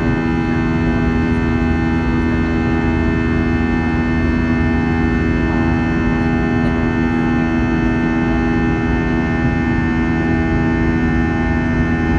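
Airbus A321 jet engines heard from inside the cabin: a loud, steady drone of many held tones over a low rumble, like a sustained organ chord.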